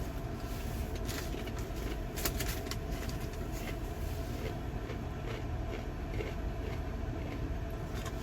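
Steady low rumble of an idling vehicle engine, with a few faint clicks over it.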